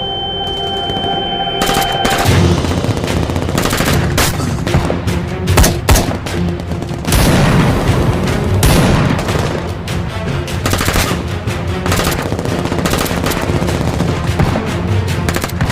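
Film battle sound: a high, steady ringing tone for about the first two seconds, then heavy rapid gunfire from automatic weapons, with dramatic music underneath.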